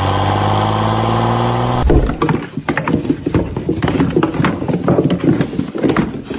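An engine running and slowly revving up. It cuts off abruptly about two seconds in, and irregular knocks and clatter follow.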